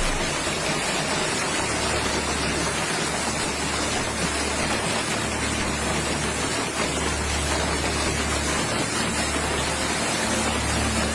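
Steady rushing water noise, as of heavy rain or flowing floodwater, even and unbroken throughout.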